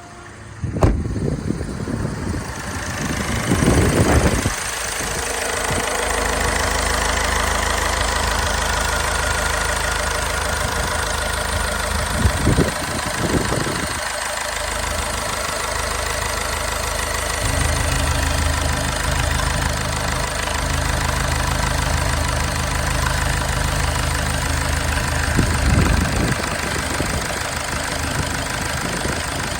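Mazda 6 diesel engine running steadily at idle. The owner says the engine has too much crankcase blowby. The engine sound comes up a few seconds in, after a click.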